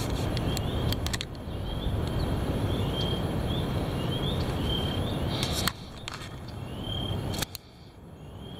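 Heavy wind gusting over the microphone, a rough low rumble that eases briefly a few times. Behind it a faint short high chirp repeats about twice a second.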